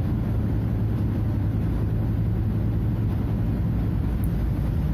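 Scania F250HB bus's DC09 five-cylinder diesel engine running with a steady low drone, holding an even pitch.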